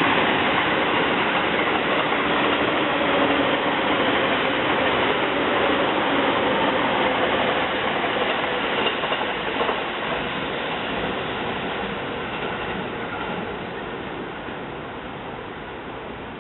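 JR East 185 series electric train running past, a loud steady rumble of wheels and motors that slowly fades over the last several seconds as it moves away.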